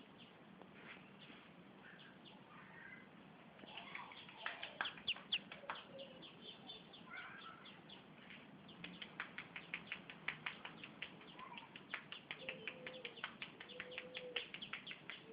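Birds chirping: quick runs of short, sharp high chirps that grow dense about four seconds in, with a few short, lower whistled notes.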